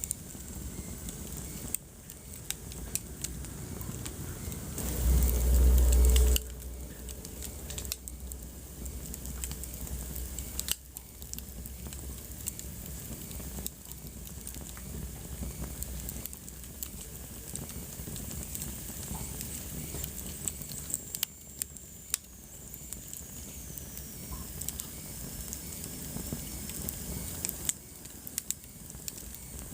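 Wood fire crackling in a fireplace: frequent sharp pops and snaps over a steady hiss. About five seconds in there is a brief, louder low rumble.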